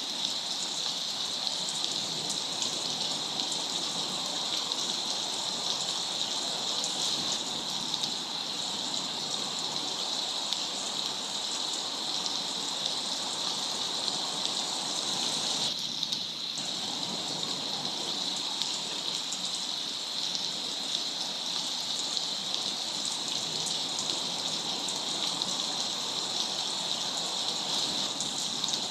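Steady rain falling, an even hiss with a brightness around the upper mids that dips briefly about halfway through.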